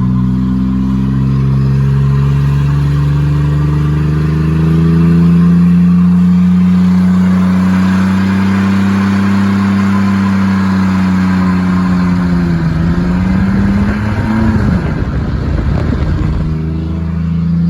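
Chevy S10 pickup's engine running with the muffler removed, held at high revs at full throttle during a burnout, its pitch climbing slowly. About two-thirds of the way through the revs dip briefly and the sound turns rough and uneven for a few seconds before steadying.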